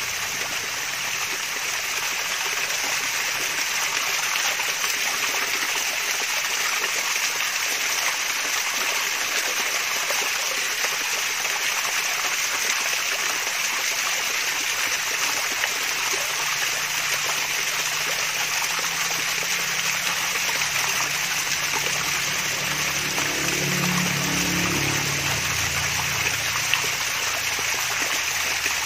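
Water of a small waterfall splashing and trickling in a steady, unbroken rush.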